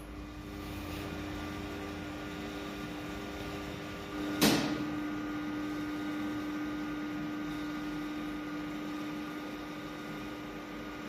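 Passenger elevator running after a reset fault: a steady machine hum with a low tone, and a single sharp clack about four and a half seconds in, after which the hum grows stronger.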